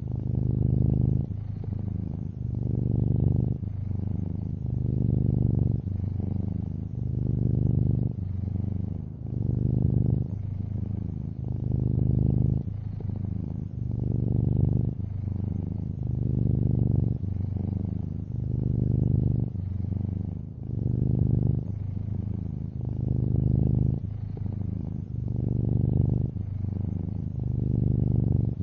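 Domestic cat purring steadily up close, a low buzz that swells and eases about every two seconds with its in- and out-breaths.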